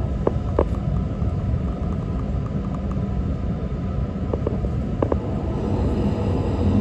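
Running noise inside the cabin of an E6 series Shinkansen train: a steady rumble of wheels on the rails, with a few light clicks.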